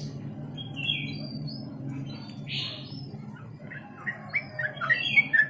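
Yellow-vented bulbul calling: scattered short chirps, then from about four seconds in a quick run of repeated falling notes that grows louder.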